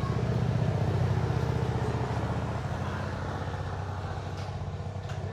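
A small engine running steadily with a rapid, even firing pulse, starting abruptly just before and easing off slightly over the few seconds.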